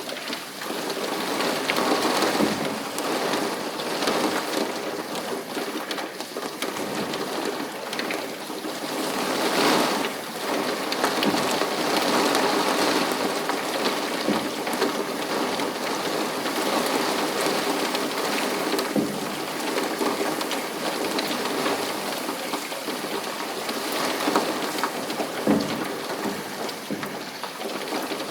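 Steady rain falling, with many close drops striking a surface.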